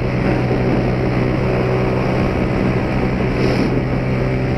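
Motorcycle single-cylinder engine running steadily while riding, heard through an aftermarket Pro Tork Competition exhaust on a carburetted Honda Titan, with road and wind noise.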